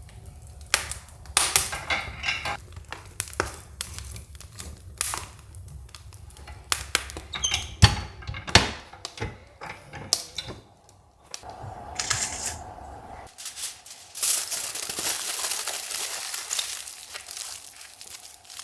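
A run of sharp clicks and knocks of things being handled, then several seconds of crinkling and rustling near the end.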